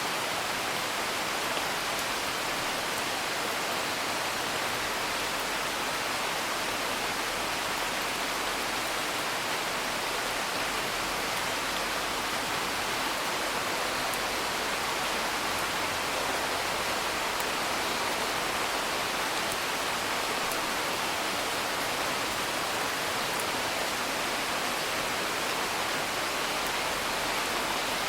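Steady rain heard from indoors, an even hiss of rainfall. A few faint, scattered crackles from a wood fire sit on top of it.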